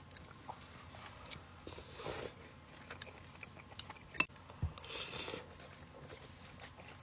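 Quiet eating sounds: a person chewing and eating soup and bread, with faint rustly stretches about two and five seconds in and a single sharp click a little after four seconds.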